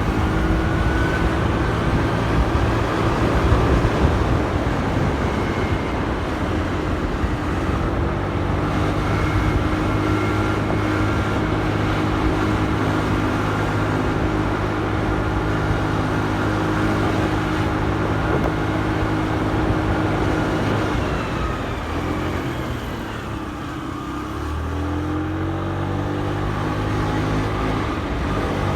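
Motorcycle engine running at a steady cruise, with road and wind noise. Near the end the engine note drops away as the bike slows, then climbs again as it pulls away.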